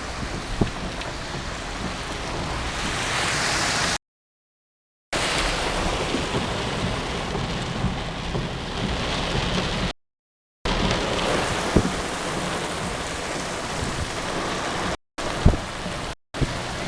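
Heavy rain pouring down steadily, with a few sharper single splashes or knocks. The sound cuts out to dead silence several times for a second or less.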